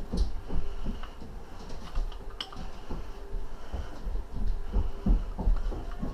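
Irregular low thumps and knocks with a few light metallic clinks: engine parts and tools being handled during disassembly of an engine.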